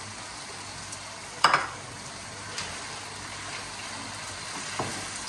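Mutton karahi sizzling steadily in the karahi pan, frying in the oil that has separated from the masala as it nears done. Once, about a second and a half in, the stirring spoon knocks sharply against the pan, with a couple of fainter taps later.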